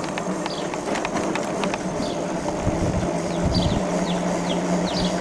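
Electric bike motor humming steadily under way, with gusts of wind rumbling on the microphone and a run of short, high falling chirps.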